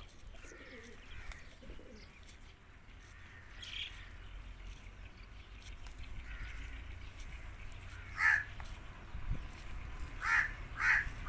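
Short harsh bird calls: a faint one early on, then a louder one about eight seconds in and two more in quick succession near the end.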